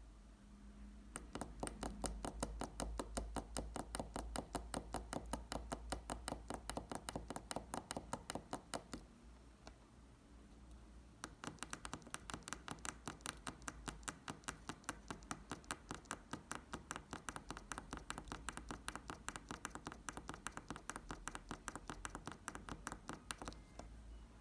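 Stepper motor stepping slowly, a rapid, even ticking of about six steps a second. It runs for about eight seconds, stops for about two seconds, then ticks again for about twelve seconds before stopping.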